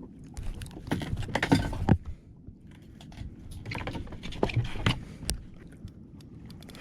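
Handling noise of fishing gear: irregular clicks, knocks and rustling in two busy spells.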